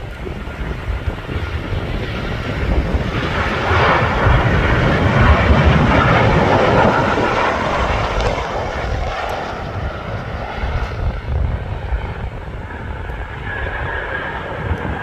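Jet airliner engines passing, a roar with a steady whine that swells to a peak about five seconds in and then eases off, over a gusty low rumble of wind on the microphone.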